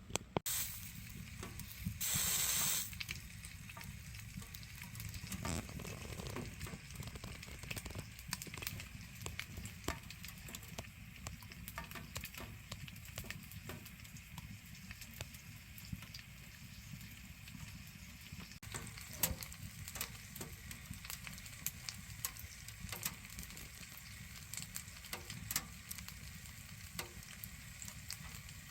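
Firewood burning in a Solotour fireplace-style three-sided wood stove, crackling with scattered sharp pops over a steady low rumble. About two seconds in, a louder rushing noise lasts just under a second.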